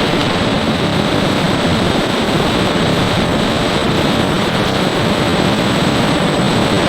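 A steady, loud machine noise that holds even throughout, with a faint high whine above it.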